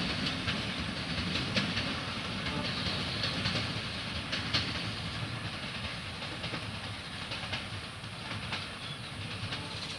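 Bangladesh Railway passenger train's PT INKA coaches rolling away on the track, wheels clacking over rail joints at irregular intervals over a steady rumble that slowly fades as the train recedes.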